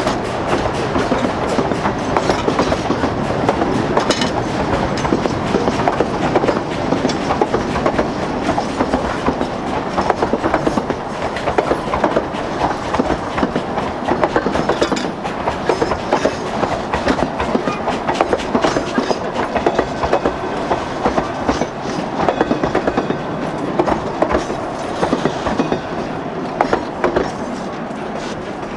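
Durango & Silverton narrow-gauge train rolling by, its wheels clicking and clattering over the rail joints in a steady run of clicks, easing off slightly near the end.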